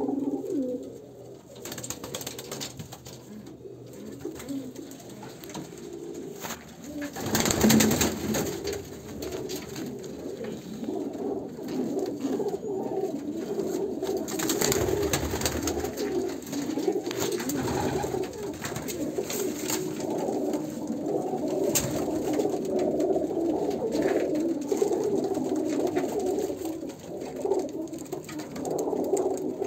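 Domestic pigeons cooing almost without a break, with scattered knocks and clicks, the loudest about seven seconds in.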